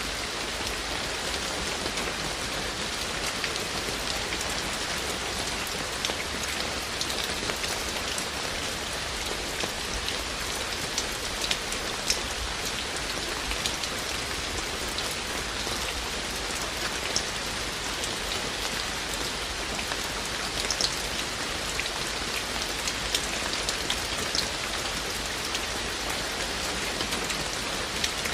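Steady rain falling, with a dense hiss and many distinct drips and drop taps scattered throughout.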